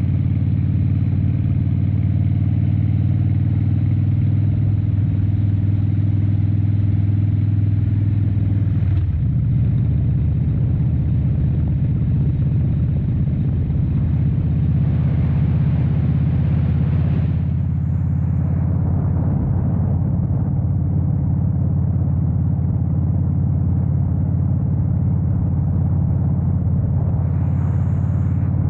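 Harley-Davidson Dyna Wide Glide's 103 cubic-inch V-twin running steadily at cruise, recorded on the bike; its pitch shifts slightly about nine seconds in. A rush of wind and road noise swells and fades twice.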